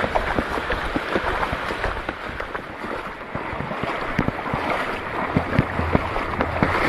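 Shallow water sloshing and splashing, with many small irregular clicks and taps throughout.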